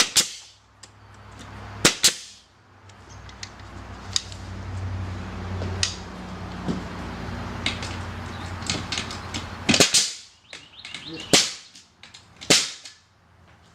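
Pneumatic air nailer firing 3-inch nails into a wooden base plate: sharp cracking shots, one at the start and one about two seconds in, then three more in quick succession near the end.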